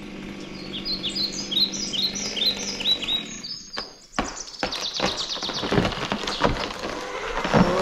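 A bird singing a quick series of short, falling high chirps, two or three a second. About halfway through the song cuts off, and louder noise with many clicks follows.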